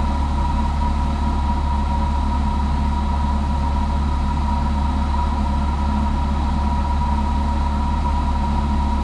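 Cessna 172's piston engine and propeller droning steadily in cruise-pattern flight, heard inside the cockpit, with a steady high whine over the low drone.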